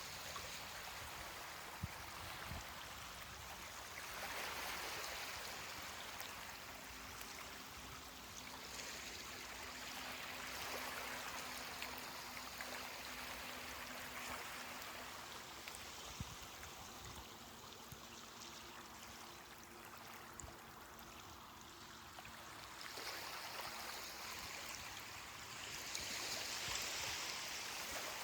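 Ocean waves washing on a beach, the surf noise swelling and easing in slow, irregular surges.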